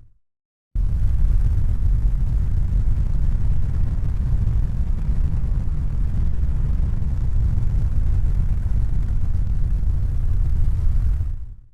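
A steady low rumble that starts abruptly after a moment of dead silence and fades out to silence near the end.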